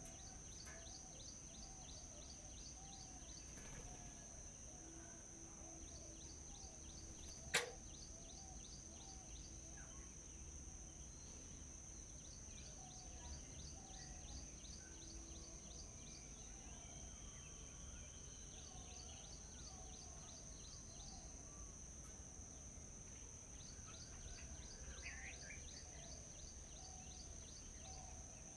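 Wild birds singing in a forest: runs of quick, high, repeated chirps come and go, over softer lower warbling calls and a steady high-pitched drone. One sharp click sounds about seven seconds in.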